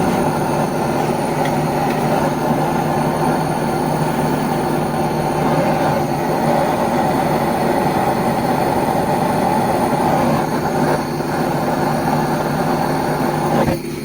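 A loud, steady mechanical noise that runs evenly and then cuts off suddenly near the end.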